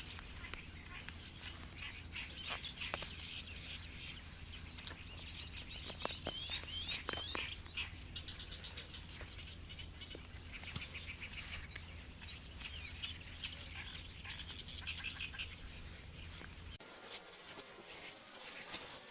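Small wild birds chirping and trilling, with scattered sharp clicks and knocks among them. About two seconds before the end the sound cuts abruptly to a different, quieter background.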